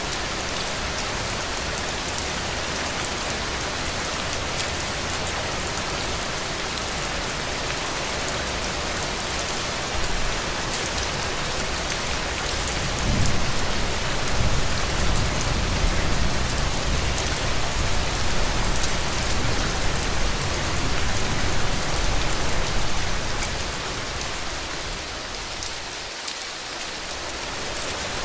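Heavy rain falling on a roof in a steady, dense hiss. About halfway through, a low rumble rolls in and lasts about ten seconds, then the rain thins briefly near the end.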